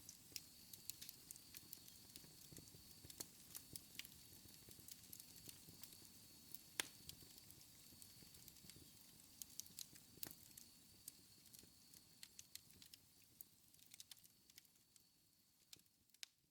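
Wood fire in a fireplace crackling quietly: irregular sharp pops over a low rumble of flames, with one louder pop about seven seconds in. The crackling thins out near the end.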